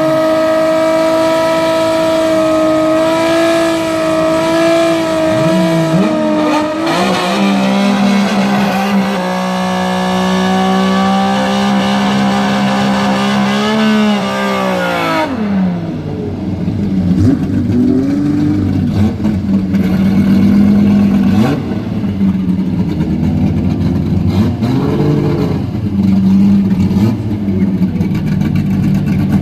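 Drag-race car engine held at steady high revs, dropping briefly and then held at a lower steady pitch before falling away about halfway through. It then runs low and rough with several short throttle blips.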